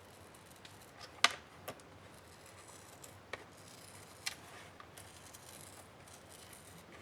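A laptop's plastic case being handled: a few sharp clicks and taps, the loudest about a second in, with faint rubbing between them.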